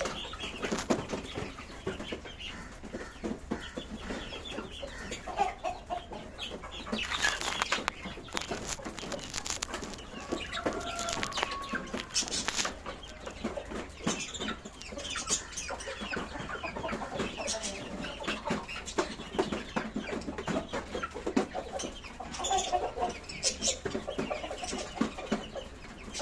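A flock of budgies and lovebirds chattering and chirping, with many short sharp clicks and bursts of wing flapping.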